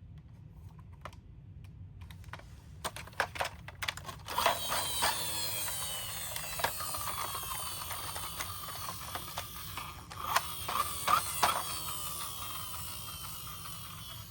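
Plastic toy vehicles clicking and clattering. A few seconds in, a whirring starts that slowly falls in pitch as it runs on, with more clatters over it.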